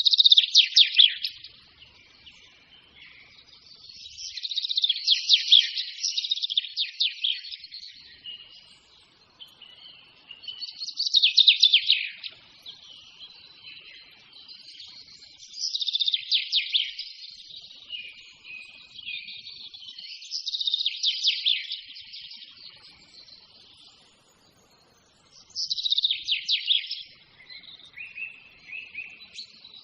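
A songbird singing: repeated phrases of rapid, high chirping notes, each lasting two or three seconds, with short pauses between them.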